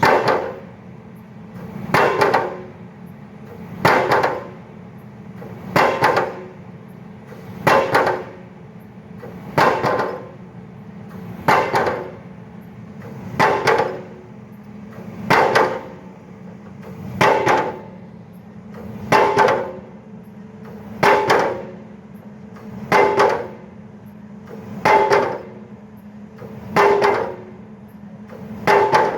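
Pile driver hammering a pile, one ringing metallic blow about every two seconds, over the steady hum of a running engine.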